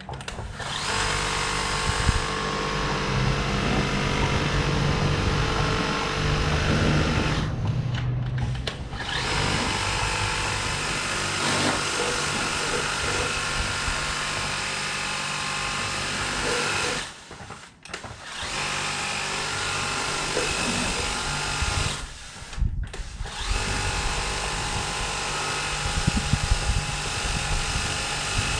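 Kobalt 600 psi battery-powered electric pressure washer running, its motor and pump humming steadily under a spray of water. It stops briefly three times and starts again.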